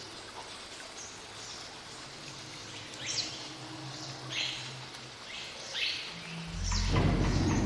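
Outdoor ambience with birds giving several short, high chirps over a faint steady background. Near the end a loud low rumble comes in.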